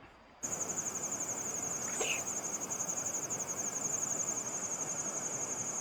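Insects trilling: a steady, high-pitched, fast-pulsing drone over an even hiss, starting abruptly about half a second in, with one short faint chirp about two seconds in.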